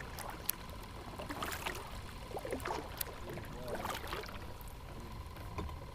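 Water lapping and trickling around a kayak hull, with a couple of sharp clicks and a faint steady high tone.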